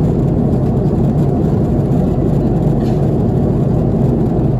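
Steady low rumble of engine and airflow noise inside the cabin of an Airbus A330-300 airliner in flight.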